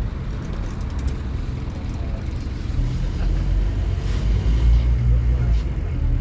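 Scania N230UD OmniCity bus's five-cylinder diesel engine running under load, a low steady rumble. It grows louder from about three seconds in, peaks around five seconds, then eases near the end.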